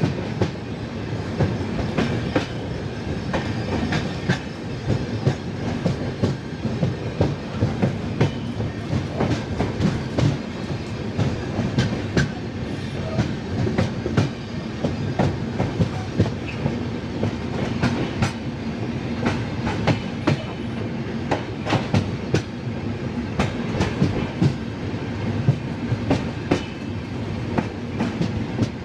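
Express passenger train running, heard from an open coach door or window: a steady rumble with the wheels clicking over rail joints many times, at irregular intervals.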